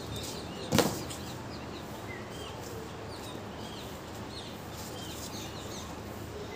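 Birds chirping in short, scattered calls over a steady background hum, with one sharp knock a little under a second in.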